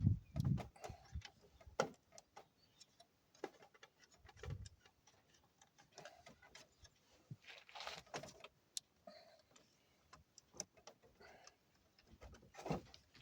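Scattered small clicks, taps and light scrapes of hand work with a small screwdriver on the instrument cluster's parts, irregular and unhurried.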